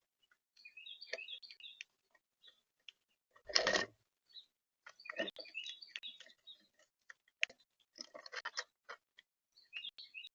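Small birds chirping in short, quick notes, mixed with scattered clicks and taps, and one louder rustling burst about three and a half seconds in.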